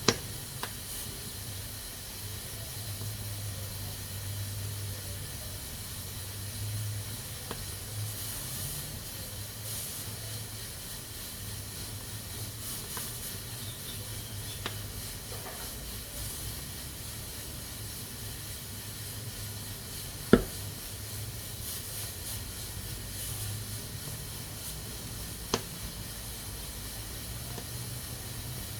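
Pressure cooker steadily hissing steam from its valve, with a low hum under it. A few sharp clicks stand out, the loudest about two-thirds of the way through.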